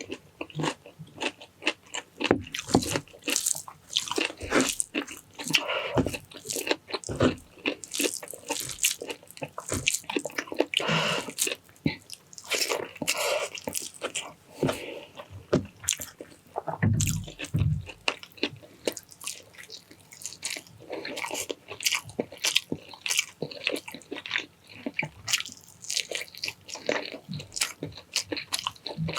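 Close-miked eating: wet chewing, biting and mouth smacking on braised pig's cheek caldereta and rice moistened with sauce, a dense run of irregular short clicks and squishes.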